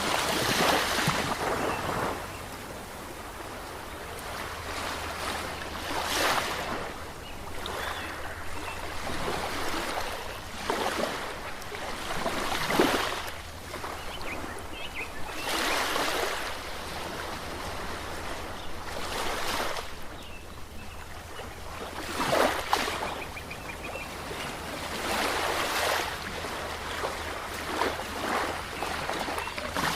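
Ocean surf: waves breaking and washing in, a swell of rushing water every few seconds over a steady low rumble.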